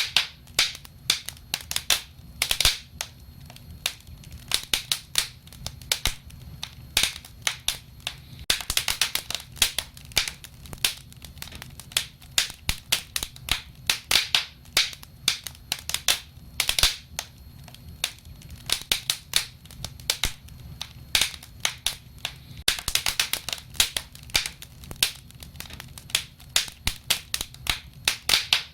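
Wood fire crackling: dense, irregular sharp snaps and pops, some in quick clusters, over a steady low rumble of the burning flames.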